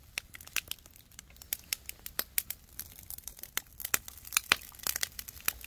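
Wood campfire crackling and popping in irregular sharp snaps, with oysters in their shells grilling over it.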